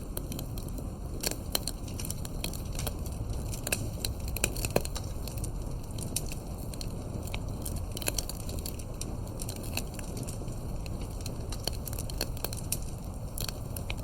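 Fireplace crackling: irregular sharp pops and snaps, a few a second, over a steady low rumble, with one louder snap about five seconds in.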